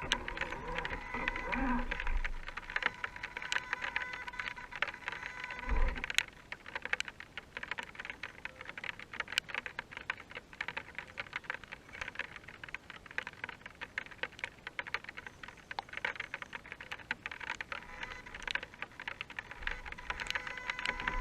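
Dense, irregular ticking of rain pattering. For the first six seconds or so, the whine of an RC crawler's electric motor and gears runs under it, ending with a low thump.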